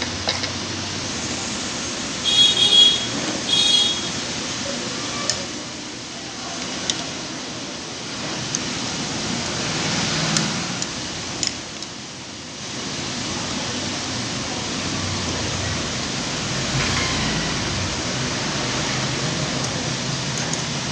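Sewing machine parts being worked on while the feed dog is taken out: two short, high metallic squeaks or scrapes about two and three and a half seconds in, then scattered light clicks. All of it sits over a steady hiss like a fan.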